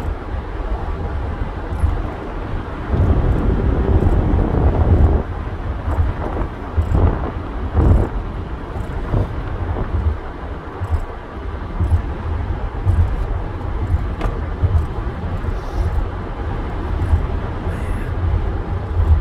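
Steady low rumble of road and engine noise in a car being driven along a highway.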